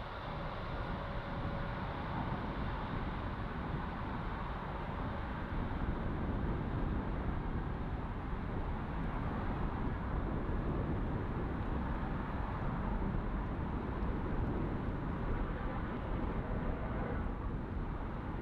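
Steady low rumble of distant jet aircraft engines at the airport.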